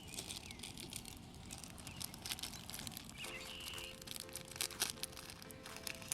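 Campfire crackling and popping in irregular sharp clicks.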